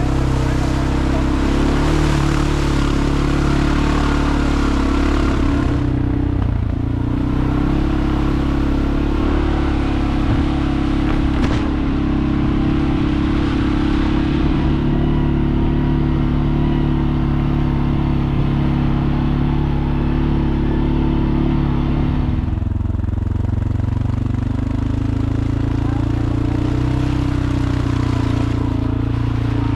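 A motor vehicle's engine running steadily while driving, with road and wind noise over it. Its pitch steps to a new level a few times, like gear or speed changes.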